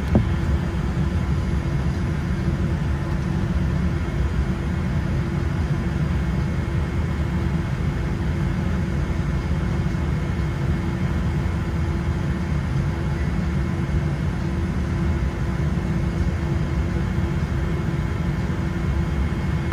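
Boeing 787-8's GE GEnx engines starting up, heard muffled from inside the passenger cabin: a steady low rumble with a faint steady whine. The startup is barely audible through the quiet cabin.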